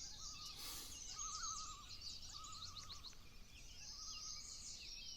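Several birds singing together: many quick chirps and trills, with a lower wavering trill repeated about every second and a half.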